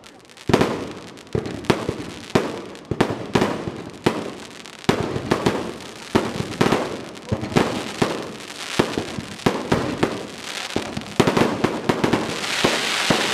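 Aerial fireworks shells bursting in a rapid barrage, one sharp bang after another, each echoing away. Near the end a dense hiss builds over the bangs.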